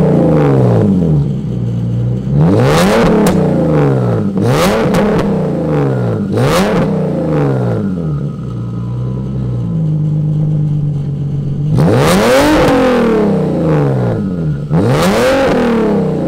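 Turbocharged Nissan 370Z's 3.7-litre V6 revved in place: about six quick blips, each rising and falling, with a few seconds of steady idle in the middle. The exhaust has a bad leak, which the owner says is costing boost.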